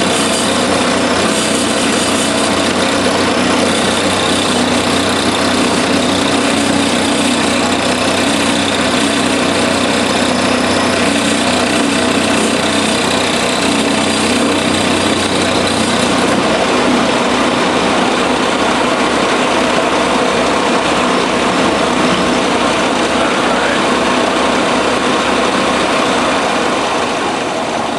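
Milling machine cutting a steel bar, a loud, continuous machining noise of the cutter in the metal over the running machine. A low hum drops out a little past halfway while the cutting noise carries on.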